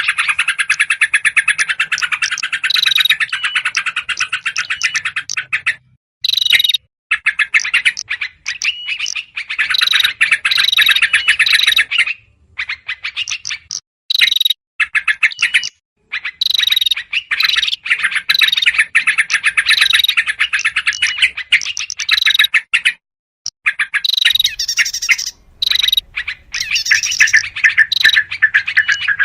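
Rapid, agitated chattering of yellow-vented bulbuls mixed with small songbirds, the kind of noisy alarm chorus played as a bird-trapping lure. It comes in dense runs of a few seconds broken by short pauses.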